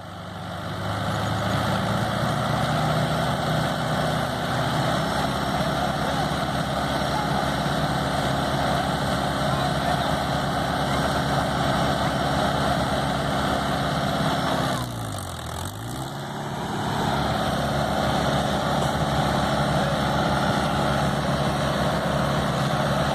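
Tractor diesel engine running hard at steady revs. About fifteen seconds in, the revs drop sharply and climb straight back up.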